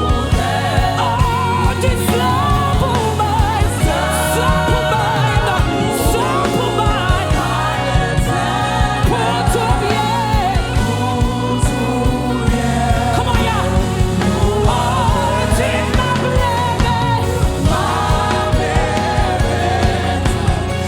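Live gospel worship music: a lead singer and backing voices singing over a band with bass and a steady drum beat.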